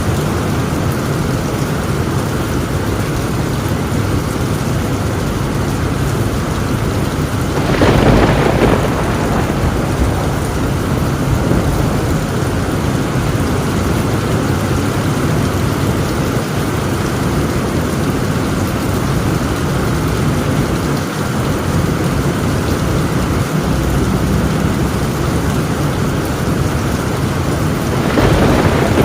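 Heavy rain falling steadily on a tin roof, with thunder breaking out louder twice, once about eight seconds in and again near the end.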